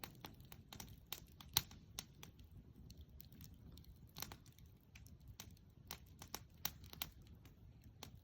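Wood bonfire crackling, with irregular sharp pops of burning wood several times a second over a low steady rumble of the fire.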